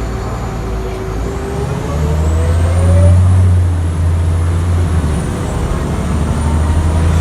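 Scania L94IB bus under way with a ZF 5HP500 automatic gearbox: a loud low engine drone, with a thin whine that rises slowly in pitch as the bus picks up speed.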